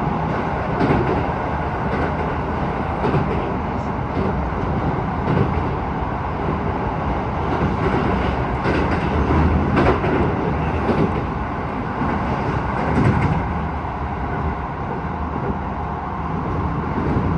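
Keisei 3000 series electric train running at speed, heard from inside the car: a steady rumble of wheels on rail, with irregular clacks from the wheels passing over rail joints.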